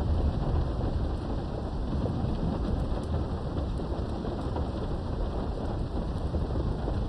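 Steady rain heard through a window, with a continuous low rumble of distant thunder underneath and faint scattered drop ticks.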